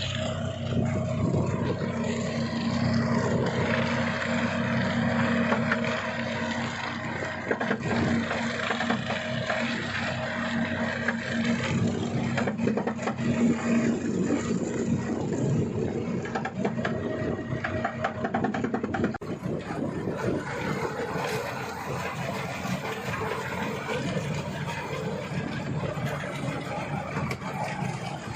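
A tractor engine running steadily, driving a baler, with a dense mechanical clatter over the engine note.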